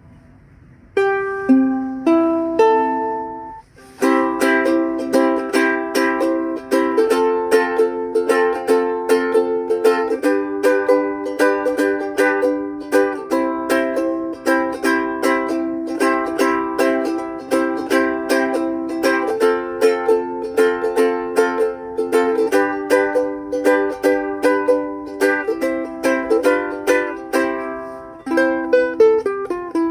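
Lanikai MA-P soprano pineapple-shape ukulele, mahogany laminate body strung with D'Addario EJ88 strings, played acoustically. Three single strummed chords are each left to ring, then steady rhythmic chord strumming starts about four seconds in.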